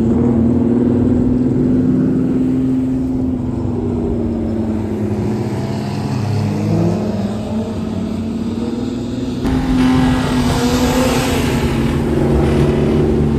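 Car engines running and revving, with pitch rising and falling. The sound changes abruptly about nine and a half seconds in and grows louder and hissier.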